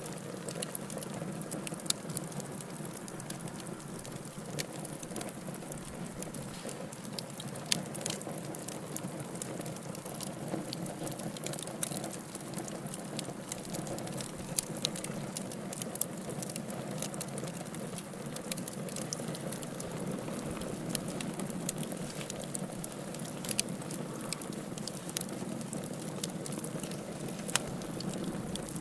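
Wood fire burning in a fireplace: a steady low rush of flame with frequent irregular crackles and pops, a few sharper snaps standing out.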